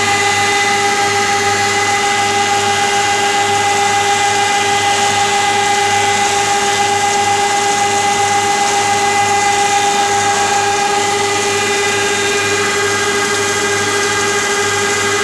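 Sienko wood moulder running steadily: a loud, even machine noise with several steady whining tones that hold their pitch throughout.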